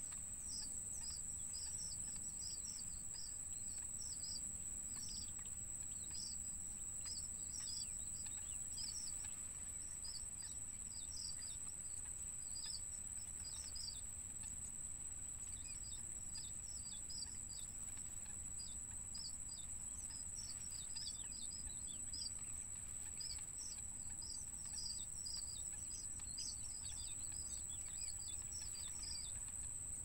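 Birds chirping: many short, high, downward-sliding notes in quick, loose runs, over a steady high-pitched whine.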